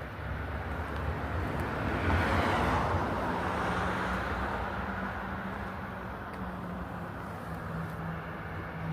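A vehicle passing close by: a swell of road and engine noise that peaks two to three seconds in and fades, followed by a steady low engine hum.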